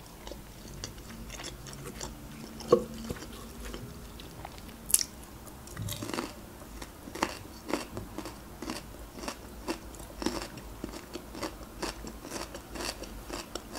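Close-miked chewing of a mouthful of pasta nest, with many small wet mouth clicks throughout. A couple of sharper clicks stand out, the loudest about three seconds in.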